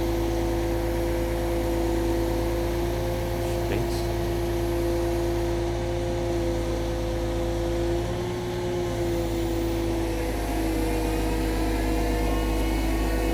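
Truck-mounted crane's diesel engine running steadily with an even droning tone, its pitch shifting slightly about eight seconds in.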